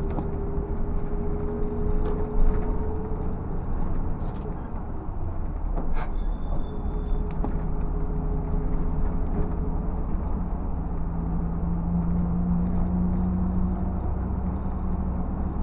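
Scania bus engine running steadily as the bus drives, heard from inside the cabin, with its pitch shifting slowly. A couple of sharp knocks, about two seconds and six seconds in, stand out over the running noise.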